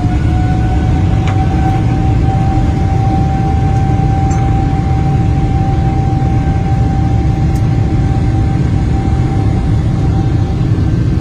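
Rolls-Royce aircraft jet engine running with a heavy rumble under a steady high whine; the whine finishes rising and levels off about a second in, as the engine settles after spooling up.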